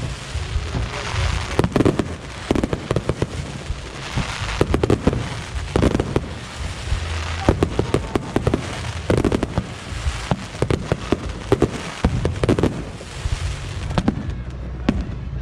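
Aerial fireworks show: rapid volleys of shells bursting with sharp bangs and crackles, over a continuous low rumble.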